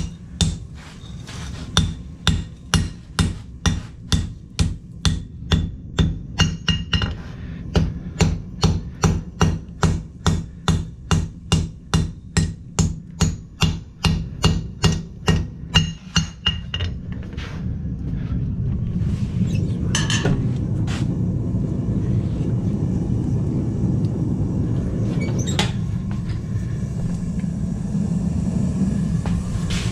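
Blacksmith's hammer striking hot steel on an anvil in a steady rhythm of about two and a half blows a second. After about seventeen seconds the hammering stops and a steady low rumble takes over, broken by two single clanks.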